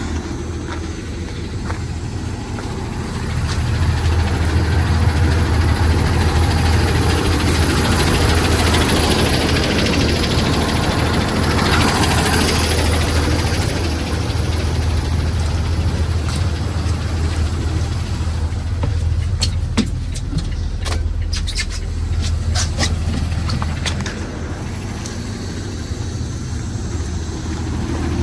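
School bus engine running at idle, growing louder about three and a half seconds in. A hiss swells briefly near the middle, and a quick run of clicks comes later.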